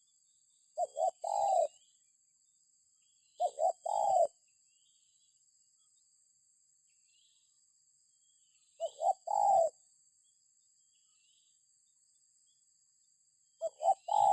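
Spotted dove cooing: four phrases a few seconds apart, each two short coos followed by one longer coo.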